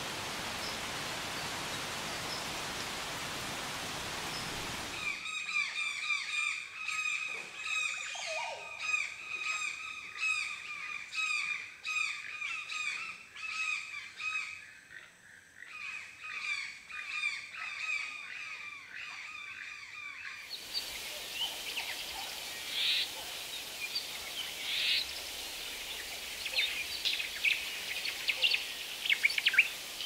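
A steady hiss, then from about five seconds in a dense run of quick repeated bird chirps lasting about fifteen seconds. After that the hiss returns with scattered bird calls.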